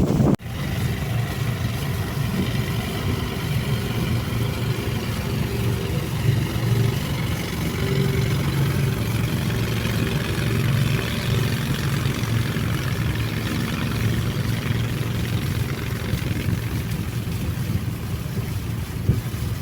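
Boat engine running steadily under way, with a hum and a wash of water and wind noise. The sound drops out for a moment just after the start, then carries on evenly.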